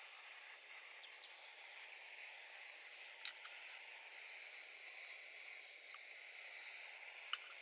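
Faint steady hiss of outdoor ambience, with two light clicks, one about three seconds in and one near the end.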